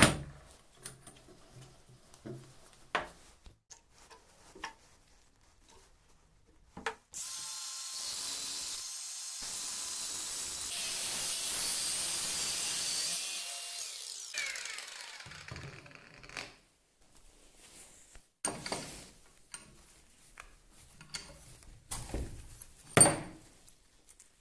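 Workshop handling knocks and clicks, then a power tool runs steadily for about seven seconds and spins down with a falling whine. More knocks follow, with one sharp knock near the end.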